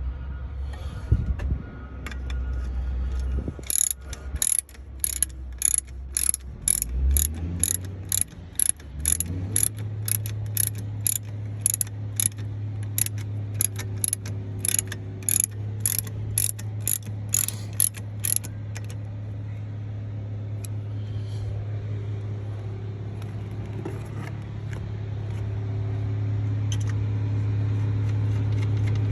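Hand ratchet wrench clicking in quick, regular strokes, about three a second, for roughly fifteen seconds. A low hum rises in pitch about a third of the way in, then runs steadily underneath.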